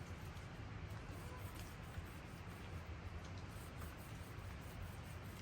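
Faint, steady background noise with a few small, soft ticks.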